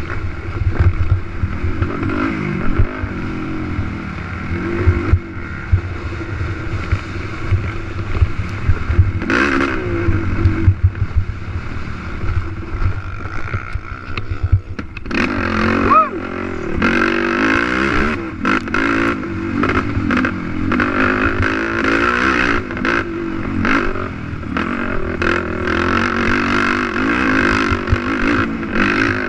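Racing quad's engine revving up and down under hard throttle, with repeated knocks and rattles, most of them in the second half.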